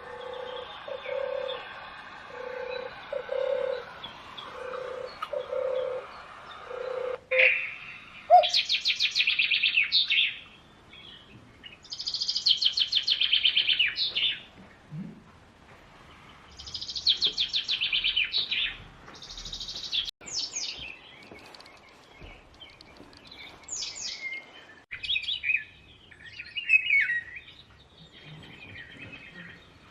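Bird calls: a low note repeated about once a second for the first several seconds, then bursts of rapid, high trilling calls, each lasting a second or two, recurring every few seconds.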